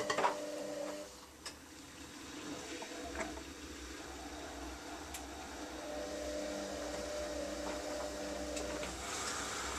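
Bosch Exxcel dishwasher starting its intensive programme: a couple of clicks at the start, then a low steady pump hum from about three seconds in, with a soft hiss rising near the end.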